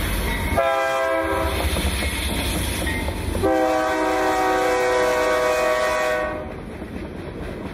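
A BNSF freight locomotive's air horn sounds two long blasts, each a chord of several steady notes, over the low rumble of the train. These are the long blasts of a grade-crossing warning. The horn stops about six seconds in, leaving the quieter sound of the passing train.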